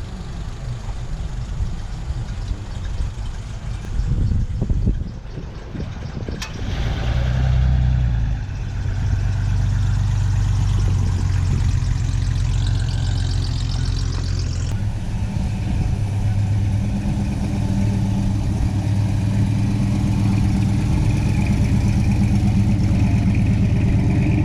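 Car engines running as vehicles drive slowly past in line. From about eight seconds in, a steady low engine note holds close by.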